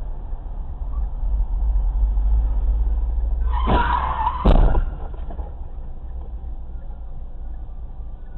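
Car tyres squealing in a skid for about a second, starting about three and a half seconds in and ending in a loud bang of an impact, over a steady low rumble of road and engine noise.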